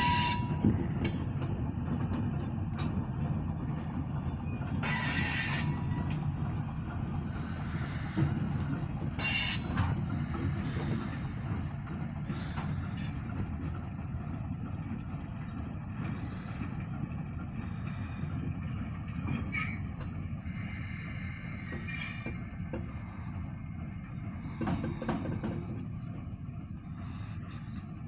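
Freight train of grain hopper cars rolling slowly past with a steady low rumble, slowly fading. Faint high wheel squeal comes and goes, with two brief loud metallic noises about five and nine seconds in.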